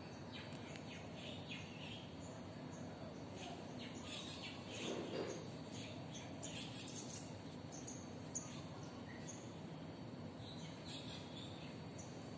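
Small birds chirping in short calls on and off over steady outdoor background noise, with one brief muffled bump about five seconds in.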